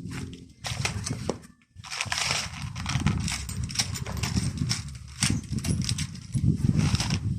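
Irregular knocking, clicking and scraping, with a couple of short pauses: hand work on a car's manual window regulator, its metal parts and cable being handled.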